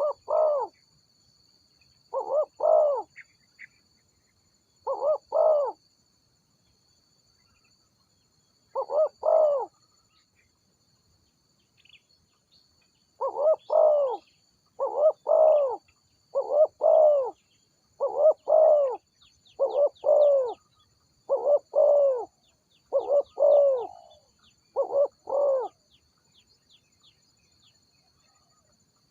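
Spotted dove cooing: a series of two- and three-note coos, a few spaced out at first and then about one every second and a half. A faint steady high insect drone runs underneath, with faint quick high chirps in the later part.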